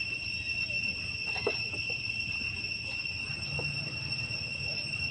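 Steady, unbroken high-pitched insect drone, like cicadas or crickets, over a low steady hum, with a couple of faint brief sounds.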